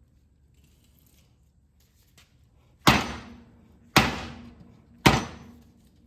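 Three heavy hammer blows about a second apart on a steel mower-deck spindle shaft, driving it out through the hub's bearings. Each strike leaves a short low ring from the metal.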